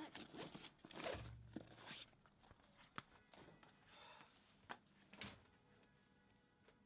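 Near silence in a small room, broken by a few faint rustles and knocks, clustered in the first two seconds with single sharp ticks later on.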